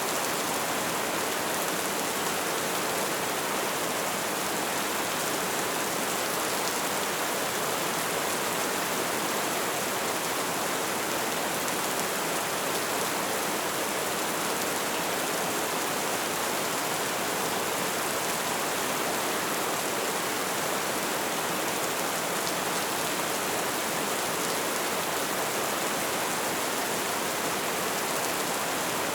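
Light rain falling steadily: an even, unbroken hiss of many small drops with no single drop standing out.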